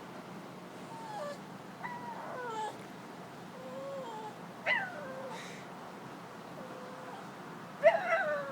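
Dog making a string of short, whining, talk-like vocal noises, each sliding down in pitch. The loudest and sharpest comes near the end.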